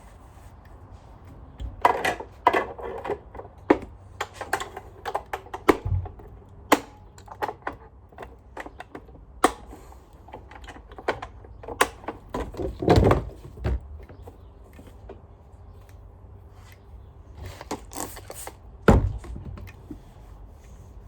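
Irregular clicks, knocks and clatter of a Sanitaire vacuum cleaner's parts being handled and fitted back together, with busier bursts of clicking a couple of seconds in, around the middle and near the end.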